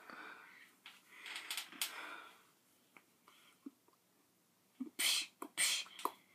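A person's breathy, unvoiced huffs and exhalations: soft ones about a second in, then a few short, sharper huffs near the end.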